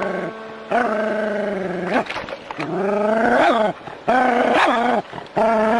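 A dog giving four long, drawn-out cries of about a second each, at a steady pitch that bends at the end of each cry.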